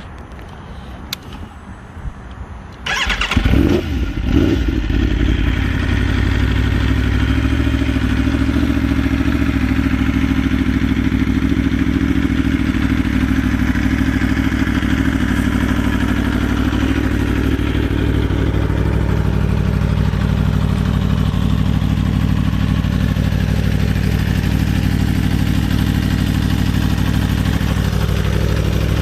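A 2014 Aprilia Tuono's V4 engine starting about three seconds in, rising briefly in revs as it catches, then settling into a steady idle. The idle speed creeps up slightly past halfway and drops back near the end.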